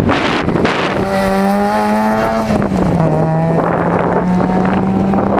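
Rally car engine running hard on a gravel stage, its note dropping about two and a half seconds in and climbing again a little later, over a steady rush of noise.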